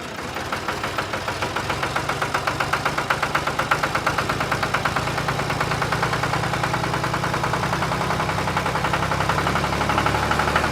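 A small engine on a miniature tractor runs with a rapid, even pulse, swelling over the first couple of seconds and then holding steady.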